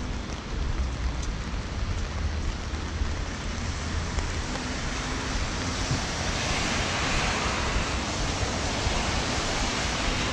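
Rain hitting a clear plastic umbrella overhead, a steady hiss that grows louder about six seconds in, over a low rumble of traffic on the wet street.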